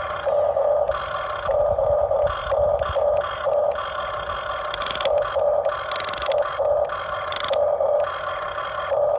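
Huina radio-controlled excavator's electric motors whining in short stop-start pulses, about two a second, with a few brief hissing bursts in the middle.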